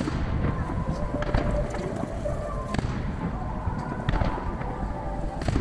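Distant aerial fireworks shells bursting one after another, a string of sharp bangs with echoing tails over a continuous low rumble, played back at three times normal speed.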